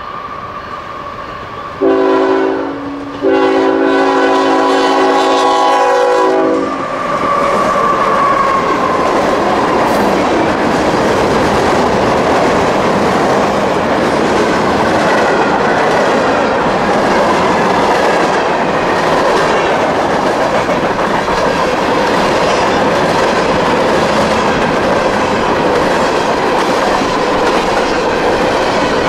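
CSX freight locomotive's horn blowing for the grade crossing: a short blast about two seconds in, then a longer one of about three seconds. The train's freight cars (boxcars, tank cars and covered hoppers) then roll past close by, with a steady loud clatter of steel wheels on the rails.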